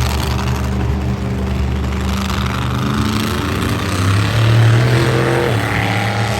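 Monster truck engine running loud, revving up about four seconds in and then easing back.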